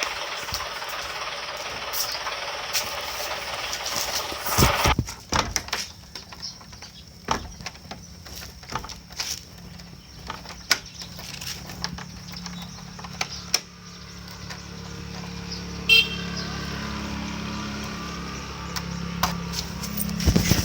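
Cartoon sound effects of construction vehicles: a steady hiss for the first few seconds, then scattered clanks and knocks, and a steady engine hum that builds in about two-thirds of the way through, with a brief high chirp just after it starts.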